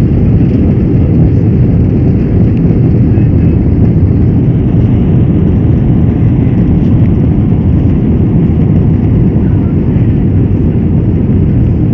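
Steady, loud low rumble of a Boeing 747-443's jet engines and rushing air, heard from inside the passenger cabin of the airborne airliner.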